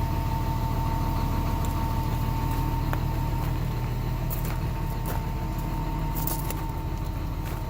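John Deere 250G excavator's diesel engine running steadily at idle, with a steady high whine over the engine note and a few light clicks in the second half.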